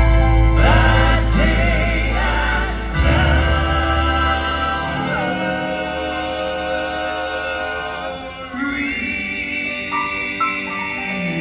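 Live Southern gospel quartet music: voices in harmony over instrumental accompaniment, with held chords and a strong bass that drops away about three seconds in.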